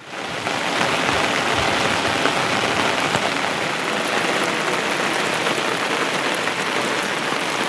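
Heavy rain falling, a dense steady hiss that comes in abruptly.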